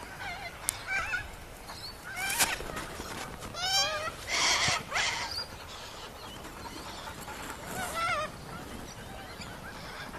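Sulphur-crested cockatoo calling: several short, wavering calls, with one loud, harsh screech about four and a half seconds in.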